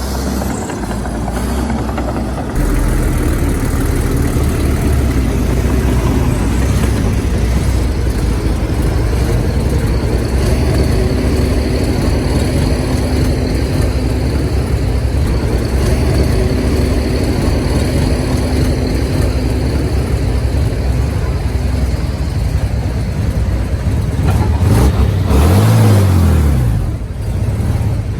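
Komatsu D61EX bulldozer's diesel engine running under load, getting louder about two and a half seconds in, with a rev that rises and falls near the end.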